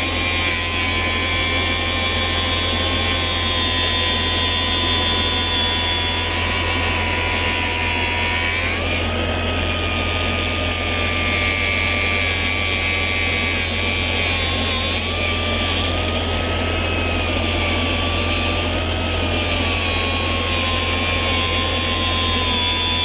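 Machinery running steadily with a high whine that steps up in pitch about nine seconds in, over a constant low hum.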